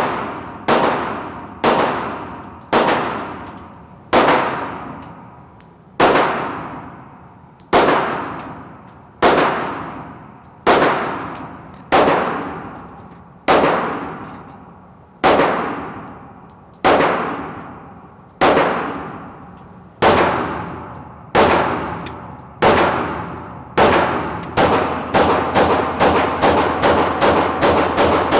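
Glock Gen6 pistol being fired: slow, deliberate single shots about every second and a half, each ringing out with a long echo. Near the end the pace picks up into a fast string of shots, several a second.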